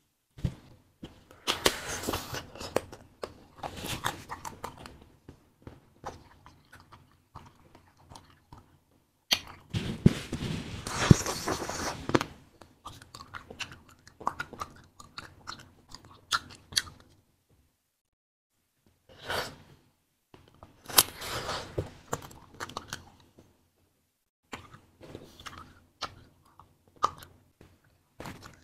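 Fruit-filled wax candy being bitten and chewed, crunching and crackling in irregular bursts with short pauses between them; the loudest crunching comes about a third of the way in.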